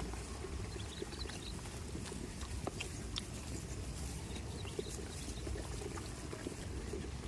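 Goats moving about: scattered small clicks and knocks over a steady low rumble, with no clear bleating.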